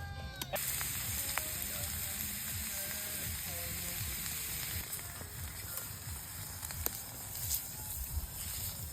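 Food sizzling and frying in a hot pan, a steady hiss with small crackles that cuts in sharply about half a second in.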